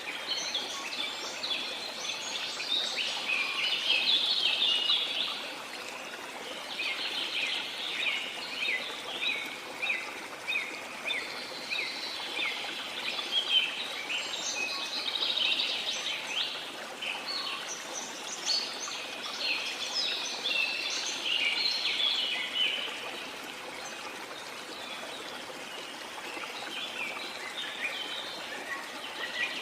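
Many birds chirping and singing over the steady rush of a flowing stream. The birdsong is dense for most of the time and thins out for a few seconds near the end.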